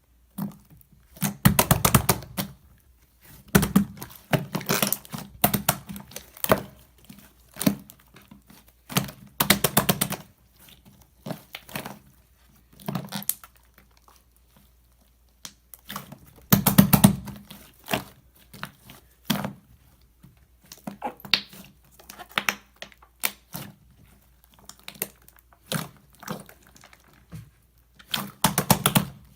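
Slime with clay mixed in, handled and squeezed, giving irregular bursts of sticky clicks and crackles with short pauses between them.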